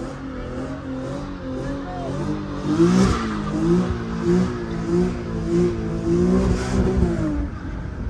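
Infiniti G sedan's V6 engine revving hard during a burnout, heard inside the cabin. The revs climb about three seconds in, then rise and fall about one and a half times a second before dropping back near the end.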